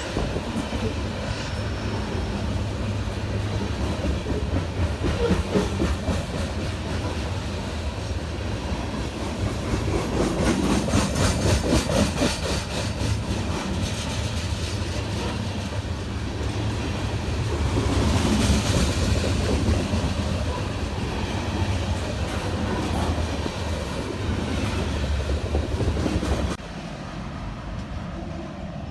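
Train passing close by: a steady low rumble, with the wheels clicking in a rapid even rhythm over the rail joints. The sound drops off suddenly near the end.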